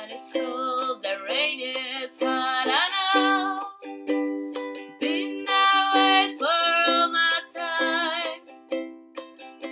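Ukulele strummed in chords, with a voice singing two phrases over it, close up in a small room.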